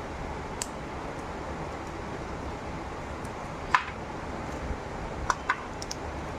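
Parrots biting into corn on the cob: a few short, sharp clicks of beak on kernels, the loudest a little before the middle and two close together near the end, over a steady background hum.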